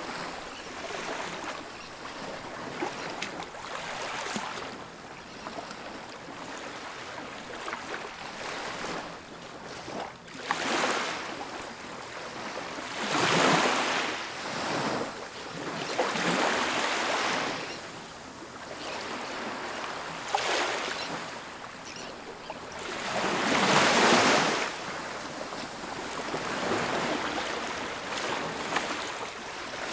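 Ocean surf breaking and washing up a beach in repeated swells that rise and fall. The biggest surges come about halfway through and again about two-thirds through.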